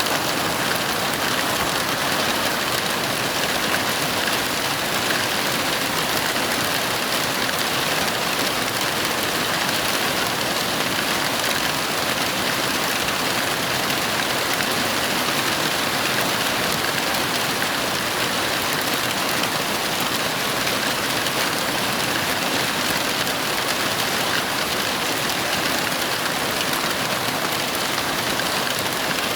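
Heavy rain falling steadily, an even, unbroken hiss of rain with no thunder claps.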